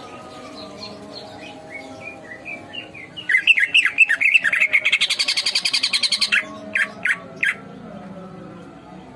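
Cucak ijo (green leafbird) singing: soft scattered chirps, then about three seconds in a loud run of quick whistled notes that builds into a rapid trill, ending in a few separate sharp notes.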